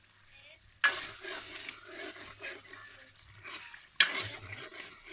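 Chicken karahi sizzling in the karahi (wok) as it is stirred, with two sudden louder strokes, about a second in and again about four seconds in.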